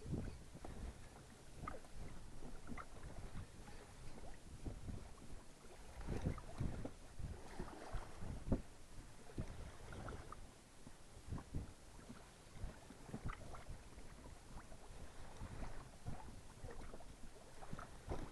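Small waves slapping and lapping irregularly against the hull of a small fishing boat, with low knocks and wind on the microphone.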